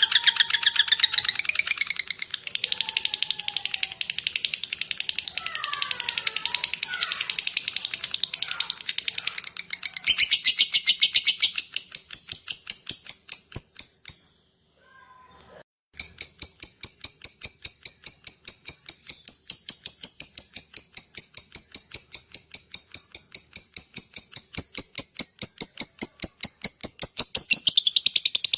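Lovebird calling in long runs of sharp, high, rapidly repeated chips (the 'ngetik' typing call and the long 'ngekek' chatter). Dense chattering first, a short break about halfway, then a steady run of chips at about four a second.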